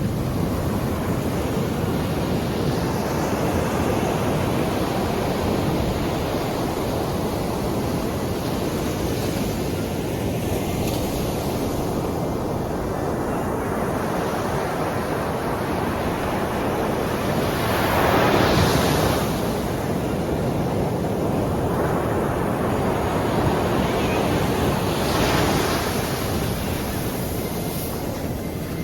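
Sea waves washing onto the shore in a steady surf, with a louder breaker swelling and falling away about 18 seconds in and another about 25 seconds in.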